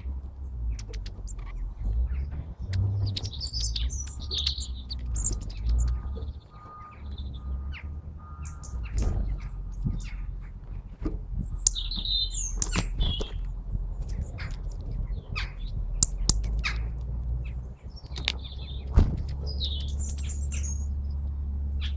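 Small birds chirping and tweeting in short, scattered calls over a steady low rumble, with a few sharp clicks.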